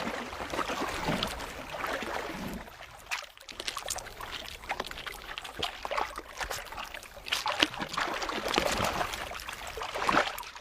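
Water sloshing and splashing in irregular bursts as polar bears move and feed in the water.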